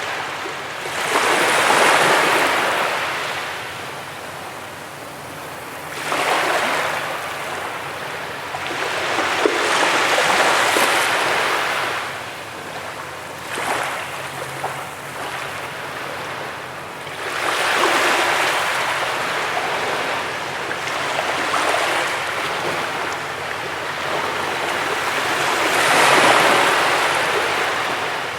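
Sea waves breaking and washing up on a beach, each surge of surf swelling and fading over several seconds.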